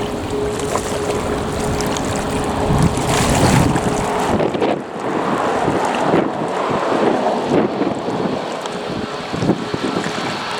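Wind buffeting the microphone over water and waves, with a steady hum underneath that cuts off about four seconds in.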